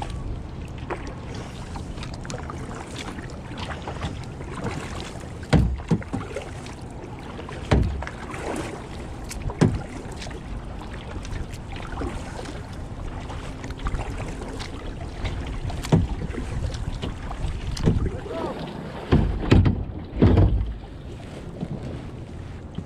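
Kayak on the water: paddle strokes and water splashing against the hull, with wind rushing on the microphone. A few louder knocks and thumps, the loudest near the end.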